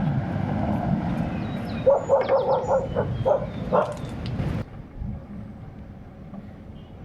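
A dog barking, a quick run of short barks about two to four seconds in, over steady background noise that drops off suddenly shortly after.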